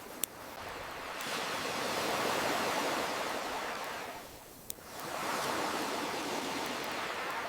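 Ocean waves washing ashore, swelling and ebbing in slow surges, with two sharp pops from a crackling wood fire, one just after the start and one in the lull between waves.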